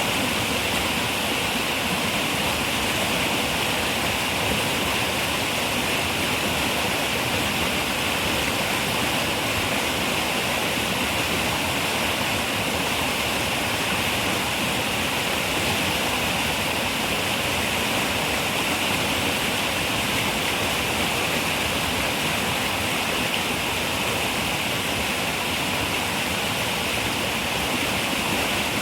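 River water running and rushing over rocks in a steady, unbroken hiss, brightest in the upper range.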